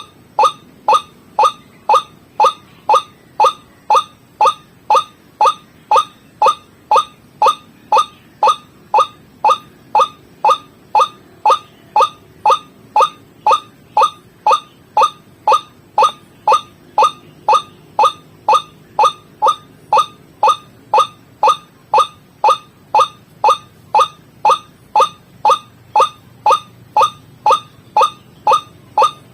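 White-breasted waterhen call used as a bird-trapping lure: one short falling note repeated evenly about twice a second, without a break.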